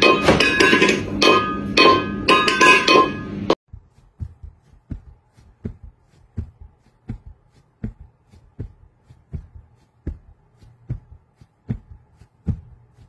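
A stainless steel food bowl clattering and ringing on a hard floor as a cat bats at it, in a quick run of strikes, stopping abruptly about three and a half seconds in. After it come soft, evenly spaced ticks, a little more than one a second, over a faint steady hum.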